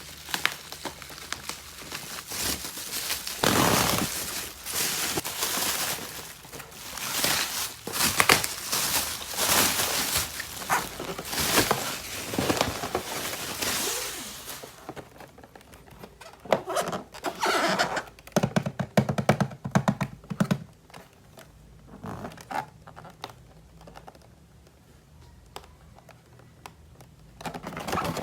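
Plastic toys and their packaging being handled and unpacked by hand: dense crinkling, scraping and clicking for about the first half, then sparser clicks and knocks of plastic pieces.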